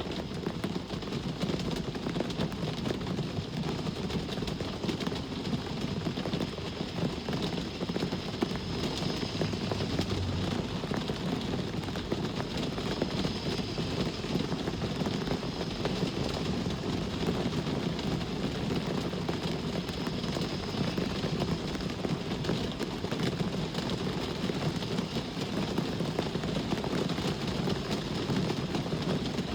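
Steady rain falling, with a constant low rumble of traffic underneath and no single vehicle standing out.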